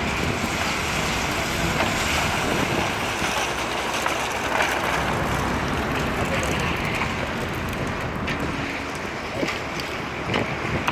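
Steady rushing outdoor noise, wind on the microphone, with a few faint clicks or knocks.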